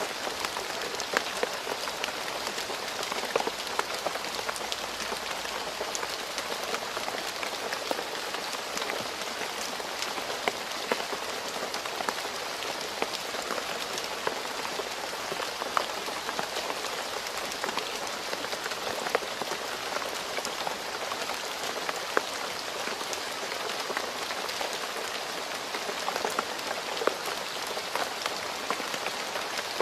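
Steady rain falling on a road, a dense even hiss with many individual drops ticking sharply through it.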